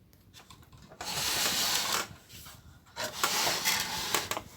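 Plastic TV cabinet scraping and rubbing on the bench as the set is turned over, in two scrapes of about a second each with a few knocks.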